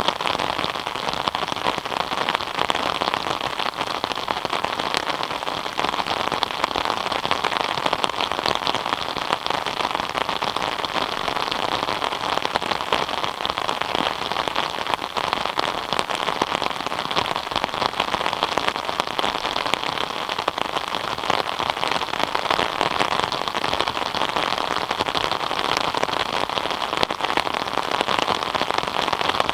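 Steady rain falling, a dense even patter of countless small drops hitting surfaces.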